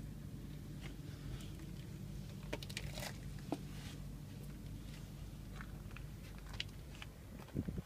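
Footsteps crunching on the ground: scattered, irregular crunches and clicks, with a couple of heavier thumps near the end, over a steady low hum.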